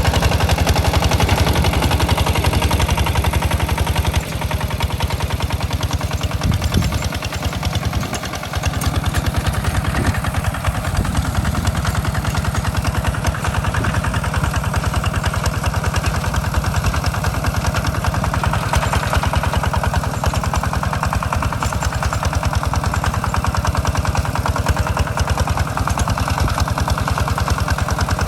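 Walking tractor's single-cylinder diesel engine running steadily with a fast, even knocking beat while plowing the paddy. Its note drops about four seconds in, dips again a few seconds later, then holds.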